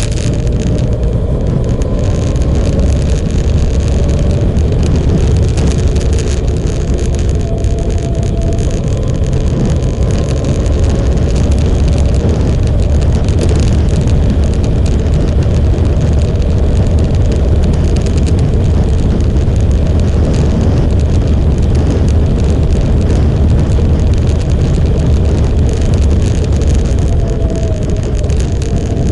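Motorcycle engine running steadily at cruising speed, with a heavy low rumble of wind buffeting the microphone throughout.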